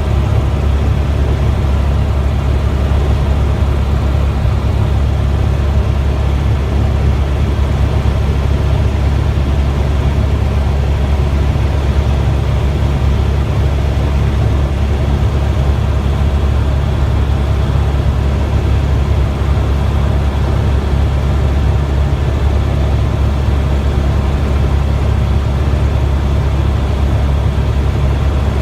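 Helicopter in flight, heard on board: a loud, steady low drone from its rotor and engine.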